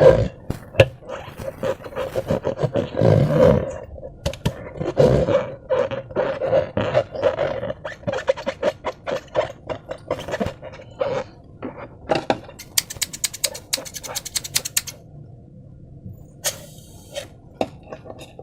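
Slime squeezed in transparent balloons: wet squelches and sticky clicks, with a low buzzing rasp through the first half. About twelve seconds in comes a fast run of sharp clicks, then scattered quieter ones.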